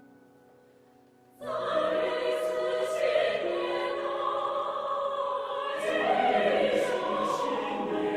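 Choir singing a folk song in full voice, coming in suddenly about a second and a half in after a fading instrumental note.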